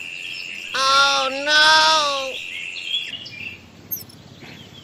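Countryside ambience: a steady high insect trill, cut by two drawn-out animal or bird calls about one second in, followed by a few short, falling bird chirps near the end.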